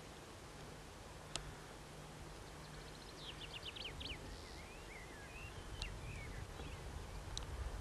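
A small bird singing faintly: a quick run of about seven short descending notes about three seconds in, then a wavering warbled phrase, with a few single sharp chips.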